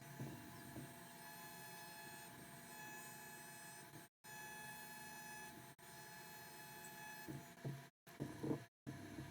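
CNC WE tattoo machine buzzing steadily while lining, a faint even hum with fixed tones. It drops out briefly a few times, and there are a few soft knocks near the end.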